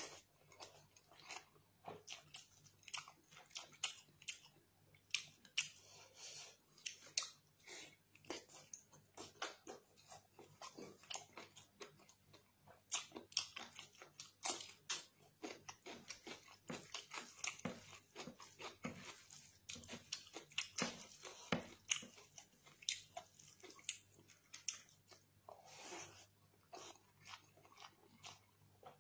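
Close-miked eating sounds of a person eating chicken curry and rice by hand: chewing, lip smacks and crunching, a dense run of quick mouth clicks throughout.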